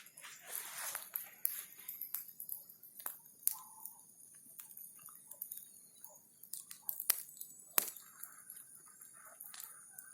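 Bonfire of burning branches crackling: irregular sharp pops and snaps, the loudest two about seven and eight seconds in.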